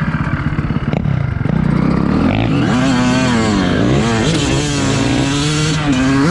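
Motocross bike engine under riding load, choppy off the throttle at first, then revving up and down repeatedly as the rider opens and closes the throttle and shifts.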